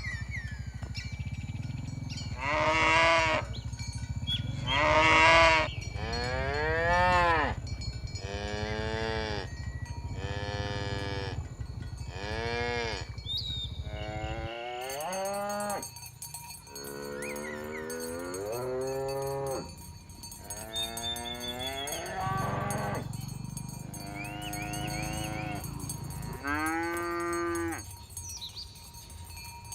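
Cows mooing again and again, about a dozen calls of a second or so each, several bending up and down in pitch as they overlap from different animals. A low steady hum runs under the first half and stops about halfway.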